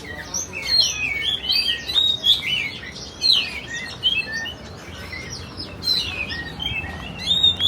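Many small caged songbirds chirping and twittering at once, a dense overlapping chorus of quick high chirps and short whistles.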